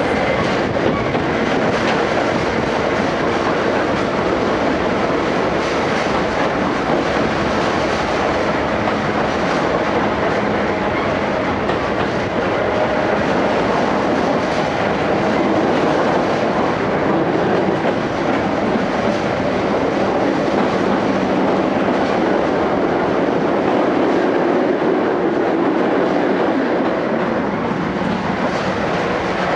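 Steady running noise of a vintage passenger coach behind a C56 steam locomotive, heard from inside the coach: wheels running on the track with no break or change.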